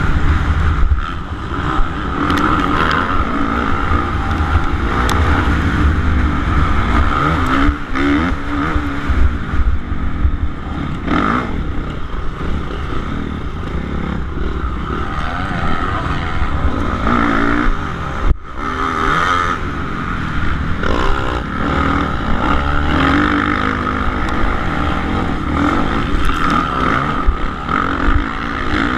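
Suzuki RM-Z450 motocross bike's single-cylinder four-stroke engine running hard in a race, its revs rising and falling as it is throttled through the track. The sound drops out for an instant about two-thirds of the way through.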